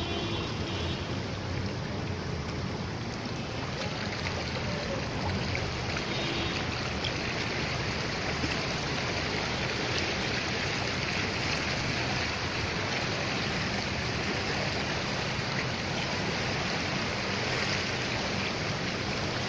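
Steady rushing and sloshing of floodwater on a flooded street.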